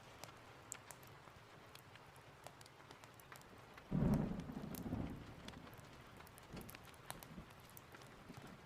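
Steady rain with scattered light ticks. About four seconds in comes a sudden, short, low rumble of thunder, fading over about a second and a half.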